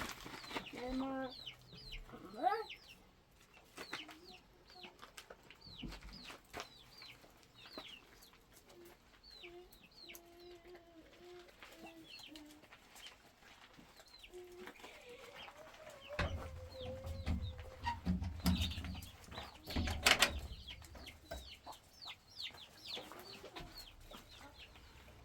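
Chickens: chicks peeping over and over in short, high, falling chirps, with a hen clucking low among them. In the later part there is a low rumble with some thumps and one loud knock.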